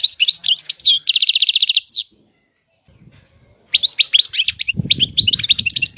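European goldfinch singing: a burst of quick twittering that ends in a fast, even trill, then a second twittering phrase after a short pause. A low rustling noise runs under the last second or so.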